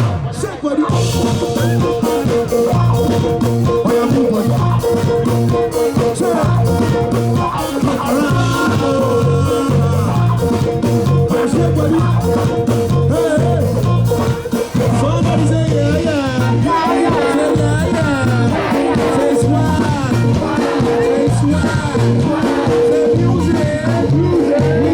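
Live band playing upbeat music: a steady, repeating bass beat with a melody line wavering over it, growing busier in the second half.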